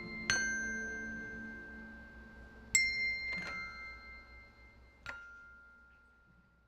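Bell-like chime tones struck four times, each ringing on and slowly dying away, fading out near the end.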